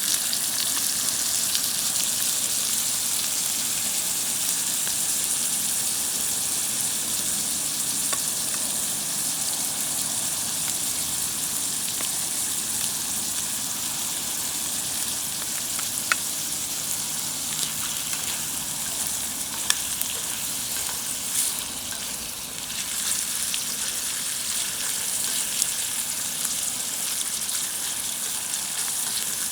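Oil sizzling steadily in a cast-iron skillet over a campfire, with a few faint pops.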